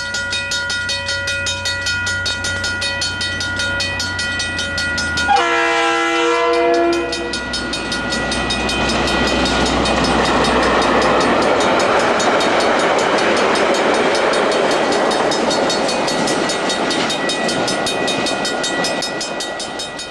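Diesel locomotive engine running with a fast, even throb. About five seconds in, its horn sounds once for about a second and a half. Then the rumble of the train rolling past swells, holds for several seconds and fades near the end.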